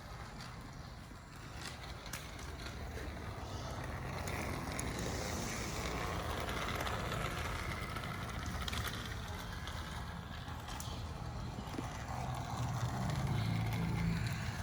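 Battery-powered TrackMaster Turbo Percy toy engine running along its plastic track, a steady motor whir with wheel rattle that grows louder and softer as it travels round. It is at its slower, non-turbo speed, with the turbo track piece set to yellow.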